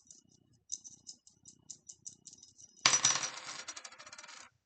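Three coins clinking lightly as they are shaken in the hands, then thrown down about three seconds in, landing with a loud metallic clatter and ringing briefly before stopping suddenly. This is the cast of one line of an I Ching hexagram.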